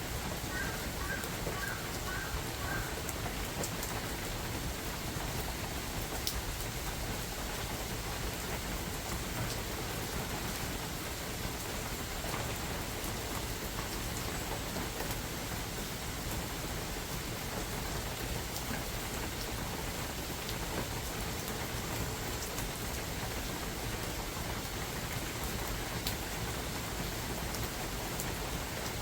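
Steady rain falling in a forest: an even hiss with scattered sharper drop ticks.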